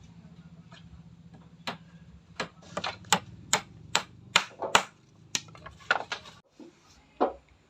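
A hammer tapping on wood: about a dozen sharp, irregular knocks, roughly two a second. A low steady hum runs underneath and cuts off suddenly near the end.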